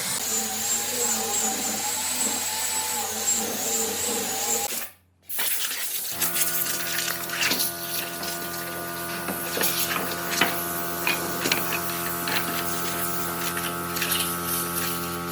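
Electric power tools running. First a motor whose pitch wavers up and down, then, after a sudden break about five seconds in, a motor at a steady pitch with scattered knocks and clicks.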